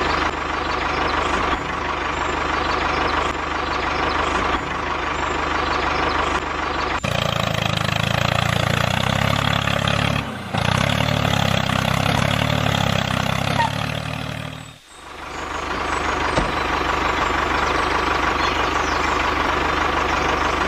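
Steady engine drone of a running vehicle. About seven seconds in it turns heavier and lower, breaks off briefly twice, and near fifteen seconds returns to the lighter, higher drone.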